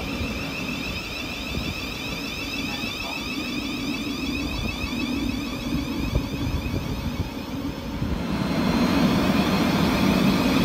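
Electric train running through the station: a steady rumble with a high whine over it, growing louder about eight seconds in.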